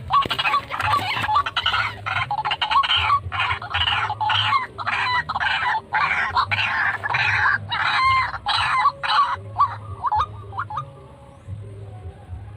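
White-breasted waterhen calling: a loud, fast run of repeated harsh clucking notes that thins out and stops about 11 seconds in.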